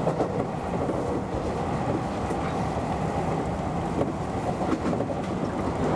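Electric commuter train running along the line, heard from the driver's cab: a steady rumble of the running gear and wheels on the rails, with a few faint clicks over the track.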